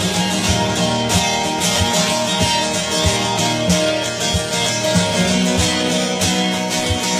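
Acoustic guitar strumming in layered loops from a loop pedal, with a low thump keeping the beat about every half second or so.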